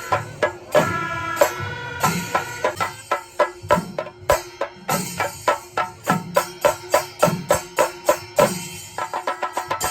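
Panchari melam temple percussion ensemble playing: chenda drums struck in a steady rhythmic pattern, with ilathalam cymbals and held wind-instrument tones. The strokes grow denser toward the end, quickening to a rapid, even beat about nine seconds in.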